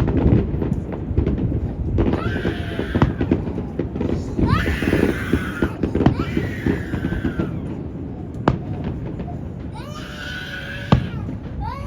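Wind buffeting the microphone with a heavy low rumble, while spectators call out in high, excited exclamations several times. Two sharp firework bangs come late, one near the end.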